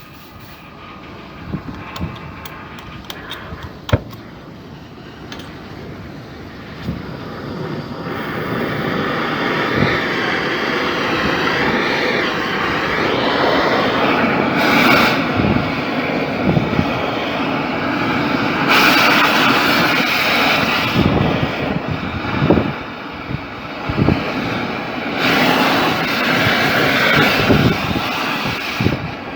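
Oxy-fuel gas cutting torch hissing as it cuts through a steel pipe. A few faint clicks at first, then the roar builds from about a third of the way in and surges louder several times.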